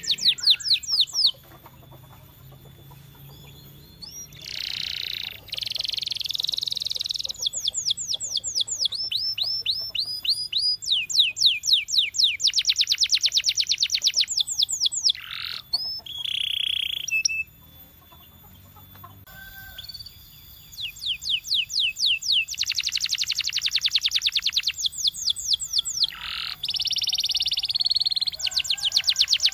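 Domestic canary singing: rapid trills of repeated sweeping notes, broken by a few longer held notes, in phrases of several seconds. There are short pauses about a second in and about two-thirds of the way through.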